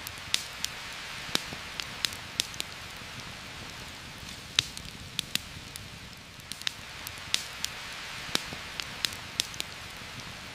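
Steady heavy rain hissing through forest foliage, with scattered sharp irregular ticks and pops, a few every second.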